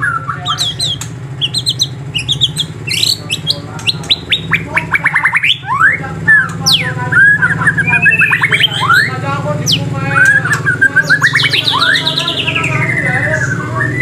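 Songbirds calling and singing together: quick chirps, rapid trills and rising and falling whistles that follow one another without a break, over a steady low hum.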